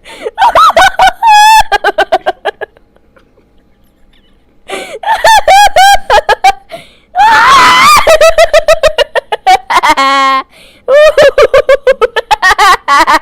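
A string of loud, exaggerated laughing sound effects, one after another, each a rapid run of pulsed 'ha-ha' bursts. About two seconds in there is a short pause, and about seven seconds in comes a shrill, scream-like laugh.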